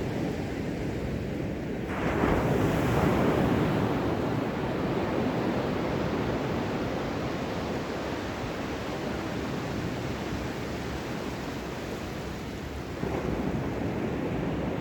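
Ocean waves breaking on a shore: a wave crashes about two seconds in and washes out slowly, and another comes in near the end, over a steady rush of surf.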